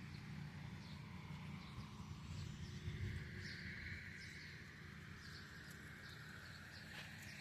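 Steady low rumble of machinery running at a distance, with a droning whine near 2 kHz that swells and fades, and short high bird chirps scattered over it.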